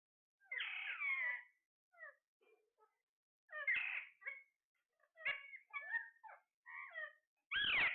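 Parrot calls and chatter: a series of short squawks and whistled notes that bend up and down in pitch, with brief gaps between them. A louder call comes near the end.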